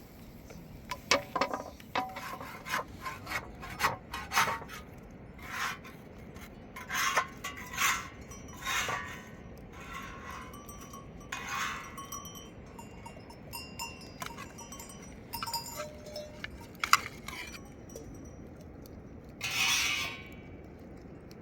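Irregular knocks, clinks and scrapes of things being handled, with a longer rasping burst near the end.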